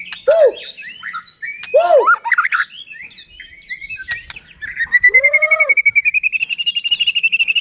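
White-rumped shama singing a loud, varied song of arched whistles and quick chirps. About five seconds in it breaks into a long, rapid trill that climbs slowly in pitch.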